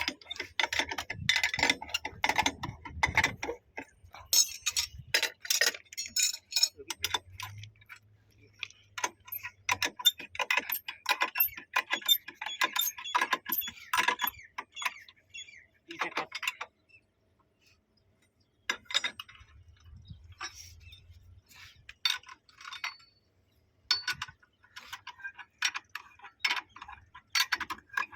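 Hand tools working metal fittings during a railway point-machine installation: runs of rapid metallic clicking and clinking lasting several seconds each, with a short lull about two-thirds of the way through.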